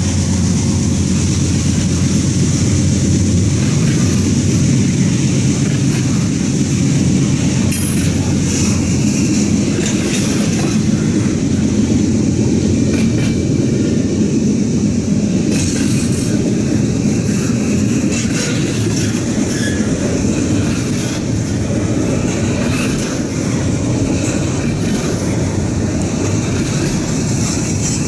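A Norfolk Southern intermodal freight train's cars rolling past with a loud, steady rumble of steel wheels on rail. A few sharp clicks mark the wheels crossing rail joints.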